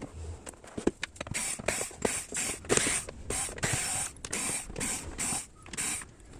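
Repeated short, scratchy turning strokes with small clicks: a hand screwdriver undoing the screws of a powered bookshelf speaker's cabinet to open it.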